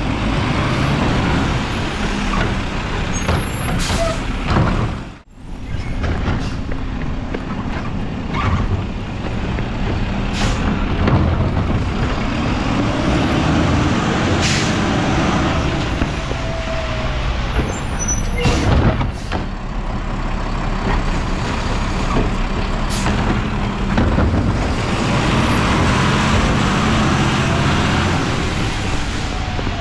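Mack LR garbage truck with a Labrie body running, its engine and machinery a steady low din, with short sharp air-brake hisses now and then.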